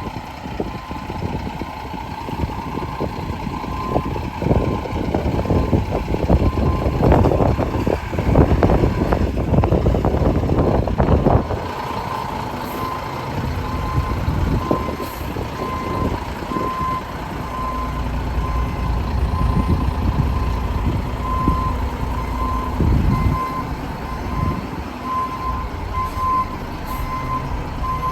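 Mack RD garbage truck with a Leach 2R-II rear-loader body working: its backup alarm beeps steadily over the engine, with a spell of heavy clattering and crunching in the first half and a low engine rumble later.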